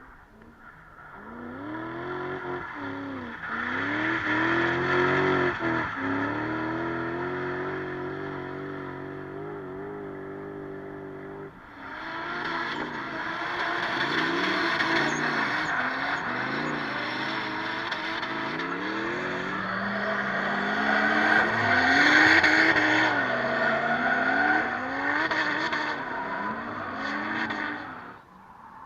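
Drift car engines revving hard, the pitch swinging up and down with throttle and held steady for a few seconds, with tyre noise from sliding. About halfway through the sound changes abruptly to another car revving and sliding, which stops suddenly near the end.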